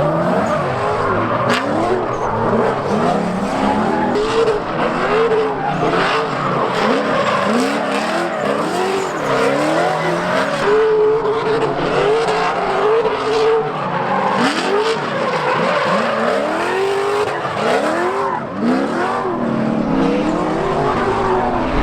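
A 6.0-litre LS V8 (LQ9) in a Nissan 240SX S13 drift car driven hard through a drift run. Its revs climb and fall over and over, and the tyres squeal.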